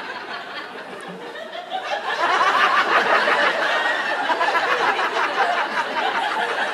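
Audience laughing, quieter at first, then swelling into louder laughter about two seconds in and holding.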